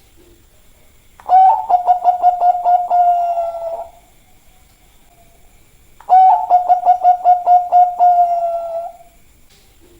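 Bangkok-line zebra dove (perkutut) cooing: two song phrases a few seconds apart. Each is a quick run of clipped coos on one steady pitch, about four a second, that ends in a longer held note fading out.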